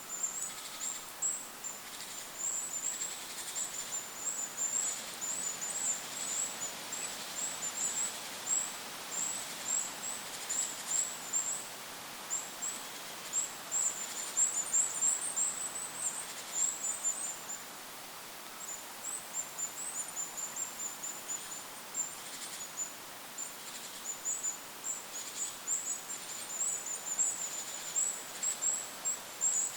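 Goldcrest calling: a long run of very thin, high-pitched notes, several a second, broken by a short pause past the middle. A light, even wind haze lies behind.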